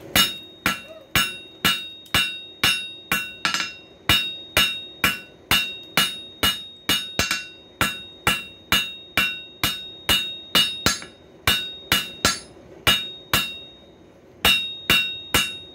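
Two-pound ball peen hammer striking hot coil-spring steel on an anvil, about two blows a second, each with a bright ring. Forging the blank of a flat-tip screwdriver; there is a short pause near the end before the blows resume.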